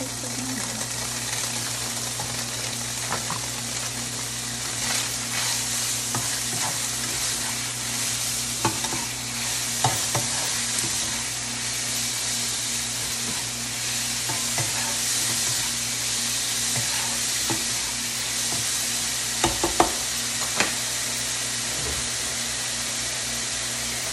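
Tofu cubes and enoki mushrooms sizzling in hot oil in a nonstick wok while a spatula stirs them, knocking and scraping against the pan now and then. A few sharper spatula knocks come about three-quarters of the way through, over a steady low hum.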